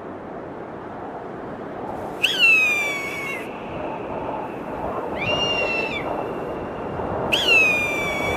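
A bird's high cry, heard three times over a steady rushing noise; each call lasts about a second and falls in pitch, the middle one rising first.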